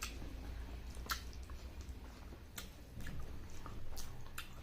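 Close-up chewing of rice pudding (kheer), with sticky, wet mouth clicks and smacks coming every second or so.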